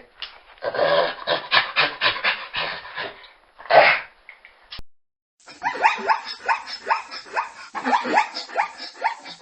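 A dog barking and yelping in quick runs of short calls, with a break about five seconds in; the second run is made of calls that each fall in pitch.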